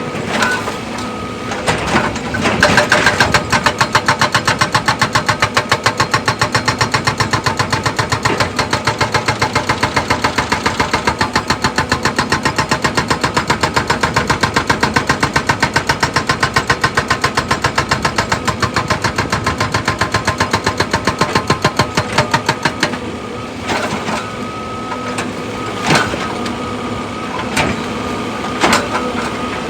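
Heavy machinery running under a steady engine hum, with a fast, even pounding of about five beats a second. The pounding starts a couple of seconds in and stops a few seconds before the end, and a few separate knocks follow.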